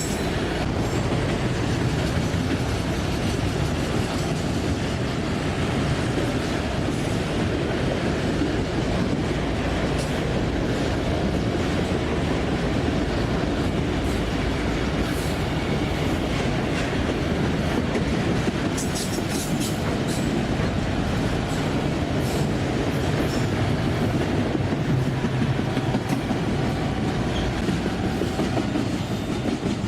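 A train's cars rolling steadily past on the rails, a continuous rumble of steel wheels with clickety-clack over the rail joints.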